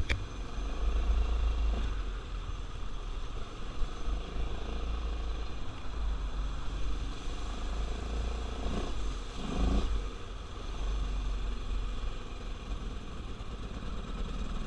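Carbureted ATV engine running while riding, with a heavy low rumble throughout. There is a short rise and fall in engine pitch about two-thirds of the way in.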